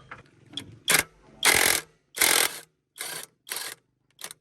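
Six short bursts of rasping mechanical noise, like a hand tool being worked in quick strokes, with the longest and loudest in the middle.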